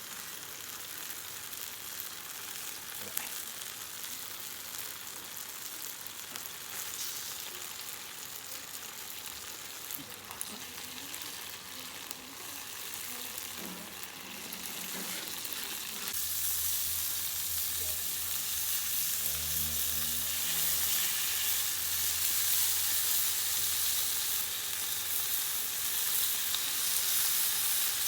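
Food sizzling as it fries in a pan over a campfire, a steady hiss with a few light clicks from stirring. It grows louder about sixteen seconds in.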